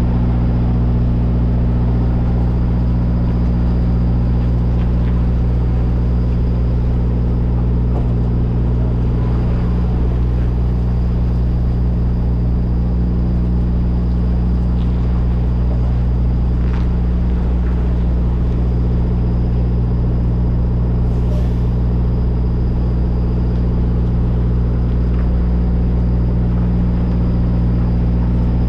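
Semi truck's diesel engine running at a steady speed, a loud, even low drone with no change in pitch.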